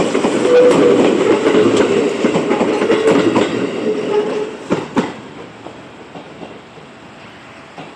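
Seibu 10000 series New Red Arrow electric train passing at close range, its wheels clattering over the rail joints. The rattle fades about four and a half seconds in and ends with two sharp clacks near five seconds, leaving a much quieter background.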